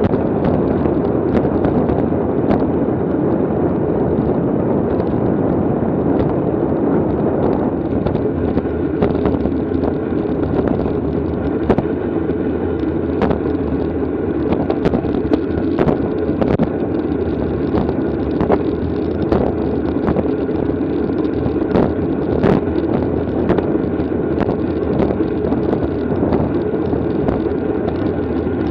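Steady wind rush over the microphone of a camera riding on a racing bicycle at speed, with frequent small clicks and ticks through it.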